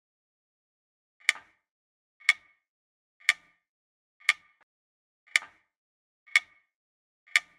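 Clock ticking steadily, about one tick a second, starting about a second in against silence.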